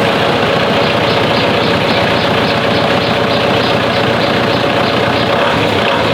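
An engine running steadily at constant speed, with a faint regular pulsing about three times a second.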